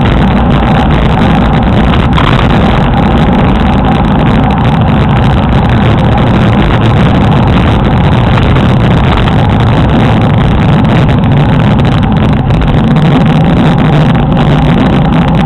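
Wind rushing over the microphone of a camera carried on a moving road bicycle: a loud, steady rumble with no pauses.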